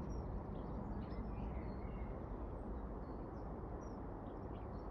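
Faint birdsong: scattered short, high chirps and whistled notes from small birds, over a steady low rumble.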